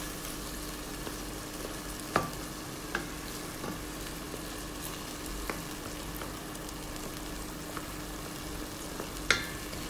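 Chopped tomatoes and onion sizzling in oil in a stainless steel pot while a wooden spatula stirs them. A few sharp knocks of the spatula against the pot stand out, the loudest about two seconds in and near the end.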